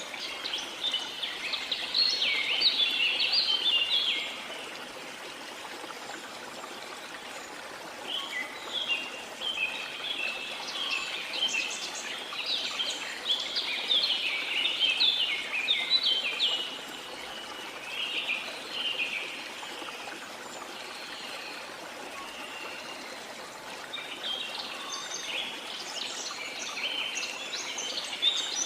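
Steady rush of a waterfall with birds singing over it in repeated bouts of rapid, high chirps, breaking off for a few seconds between bouts.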